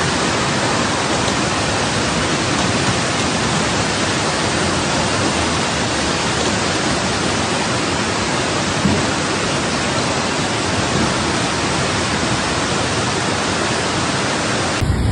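Steady, loud rushing of water, an even noise with no rhythm or breaks.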